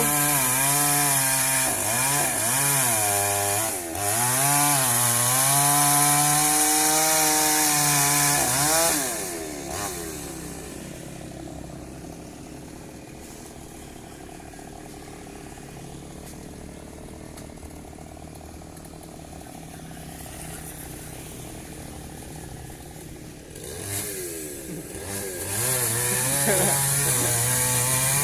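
Two-stroke chainsaw felling a tree. The engine is revved high and wavers under load for about nine seconds, drops to a much quieter idle, then revs up and cuts again about 24 seconds in.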